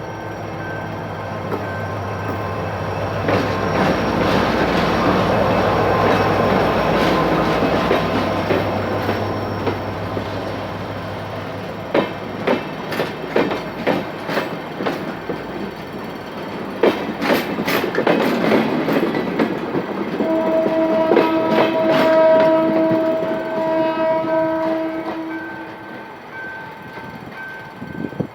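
General Motors GT-22 CW-2 diesel-electric locomotive passing with a train of coaches. The diesel engine's loud, steady hum builds over the first ten seconds. Then wheels click over rail joints in quick irregular clusters, and a train horn sounds one steady chord for about five seconds, beginning about twenty seconds in.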